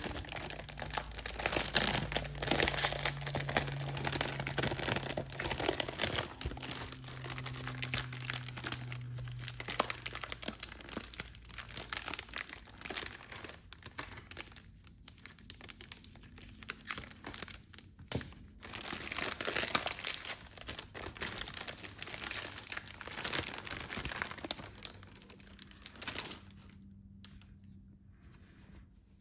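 Plastic wrapping being torn and crumpled by hand off a set of manga books, a dense crinkling with quieter gaps about halfway through and near the end.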